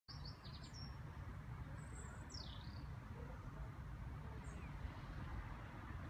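Outdoor ambience: a steady low background rumble with a few short, high bird calls. Most come near the start, one falls and then rises in pitch about two and a half seconds in, and a faint one follows near the middle.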